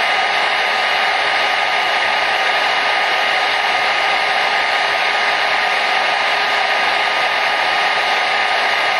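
Hair dryer running steadily: an even, unchanging rush of air with a faint motor whine in it.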